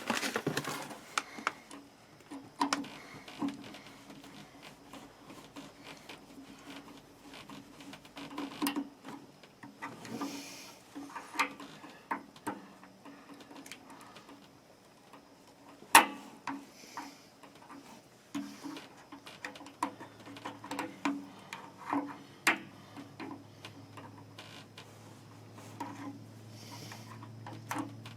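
Irregular small clicks, taps and rattles of hands handling the electric water heater's thermostat, wires and retaining clips, with one sharp click about halfway through and a faint low hum in the second half.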